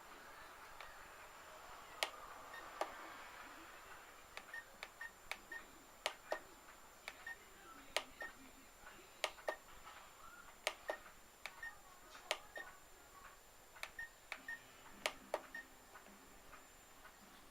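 Sharp plastic clicks at irregular intervals, roughly one to two a second, and short high beeps in between, from a drone's radio transmitter being switched and operated.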